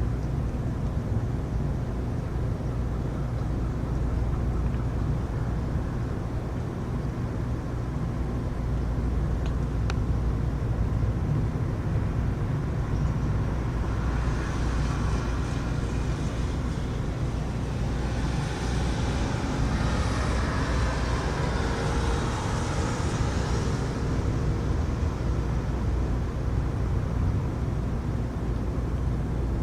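Rainstorm noise: a steady low rumble, with a hiss that swells for about ten seconds in the middle.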